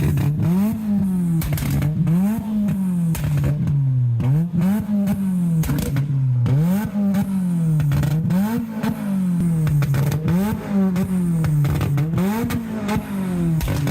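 A modified car's engine revved hard over and over, about once a second, each rev climbing quickly and falling back, with sharp pops from the exhaust between revs. Loud.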